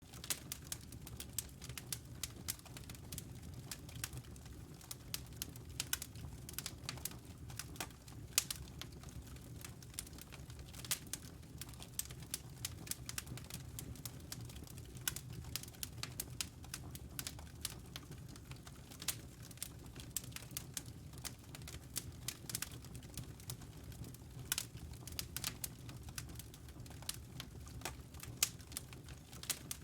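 Campfire crackling: burning wood gives frequent, irregular sharp pops and snaps over a low, steady noise of the flames.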